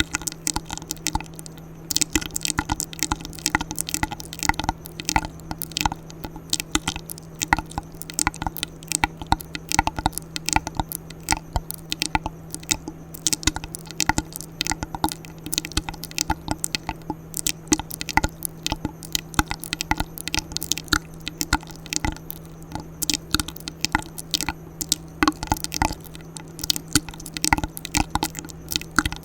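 Close-miked ASMR mouth sounds: a rapid, irregular run of wet clicks, pops and squishes, over a steady low hum.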